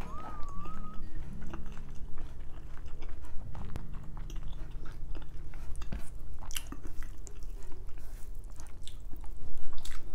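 A person chewing a mouthful of rice and boiled pork hock close to a lapel microphone, with many small wet mouth clicks and smacks.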